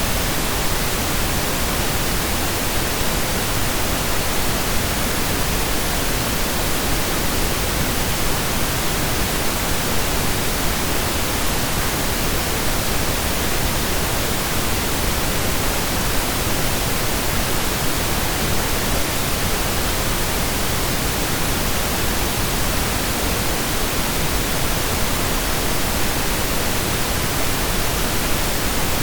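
Steady synthesised pink noise: an even hiss with equal energy per octave, like steady rain or a waterfall, unchanging throughout.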